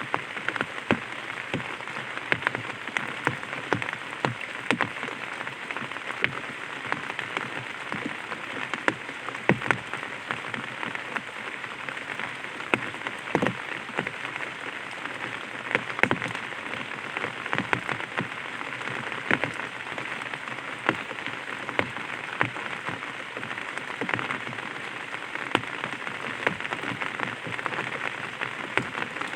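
Light rain falling on an umbrella: a steady hiss of rain with many irregular, sharper drop taps on the canopy.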